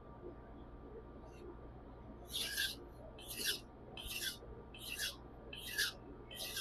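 Nakiri knife blade stroked across a Majin 600-grit whetstone, six evenly paced scraping passes about 0.8 s apart, starting about two seconds in.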